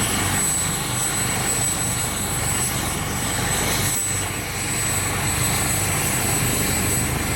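Medevac helicopter running on the ground with its rotors turning, ready for takeoff: a steady rapid rotor beat under a high turbine whine.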